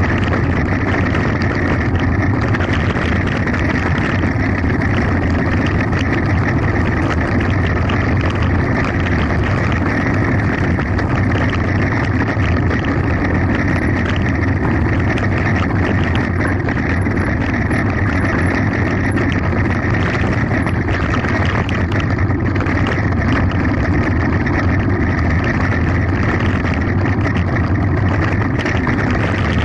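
Mountain bike running fast downhill: a steady rush of wind on the microphone mixed with the rumble and rattle of tyres and frame over a rough gravel road.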